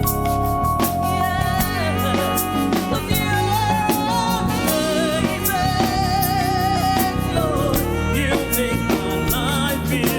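Live gospel praise-and-worship music: a band with drum kit keeps a steady beat under sustained keyboard chords while a singer holds long notes with vibrato.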